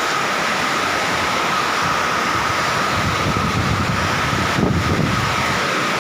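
Heavy rain pouring down steadily, a dense even hiss with a low rumble that swells in the middle.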